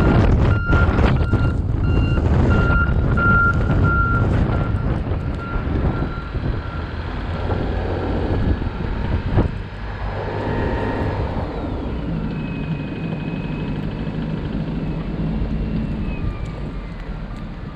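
Repeated reversing beeps over a steady vehicle rumble, sounding for the first several seconds. Later a steady hum runs with a higher tone that slides down in pitch.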